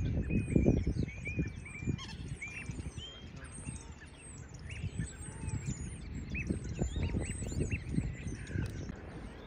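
Many small birds chirping: rapid, short, high calls overlapping one another, over irregular low thuds and rumble.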